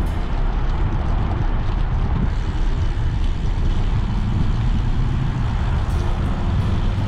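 Wind rumbling steadily over the microphone on a moving bicycle, a low buffeting noise with a faint hum coming in near the end.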